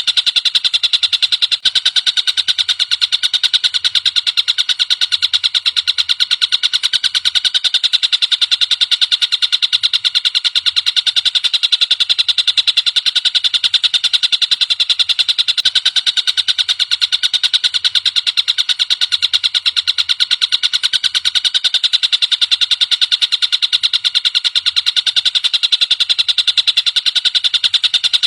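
Tengkek buto singing a continuous, high-pitched, rapid trill of quickly repeated notes, played as a masteran recording for training songbirds.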